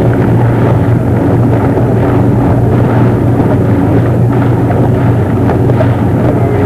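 Steady low engine hum under heavy, constant wind rumble on the microphone.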